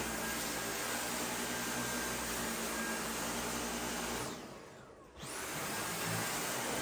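A steady rushing noise like a household appliance running, which fades away a little after four seconds and comes back abruptly about a second later.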